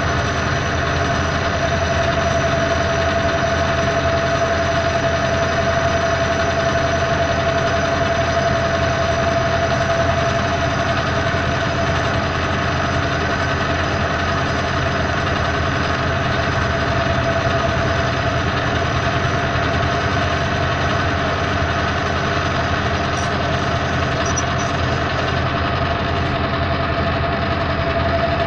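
Lance metal lathe running with a steady whine, turning a 30-thousandths-of-an-inch cut on stainless steel bar stock.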